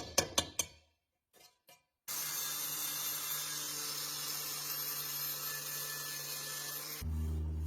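A few sharp taps, then about two seconds in a steady spraying hiss starts and holds, with a low hum joining near the end.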